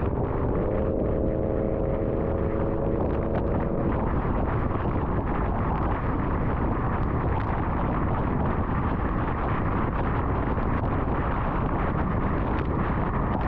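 Steady road and wind noise of a car driving at highway speed on an interstate. For about three seconds near the start, a held tone with several pitches sounds over it.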